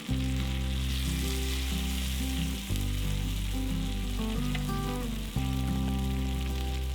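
Meat frying over a campfire, a steady sizzle, under background music of low held notes that change every few seconds.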